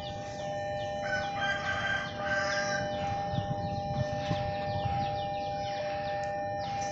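Railway level-crossing warning alarm sounding: a steady two-tone drone under quick repeated falling dings, about four a second. About a second in, a separate pitched call joins briefly for about two seconds.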